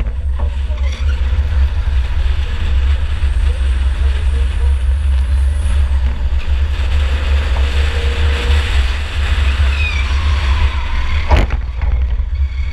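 Onboard sound of a 2004 Chevy Impala enduro derby car running hard: a loud, steady low rumble of engine and road noise, with one sharp knock about eleven seconds in.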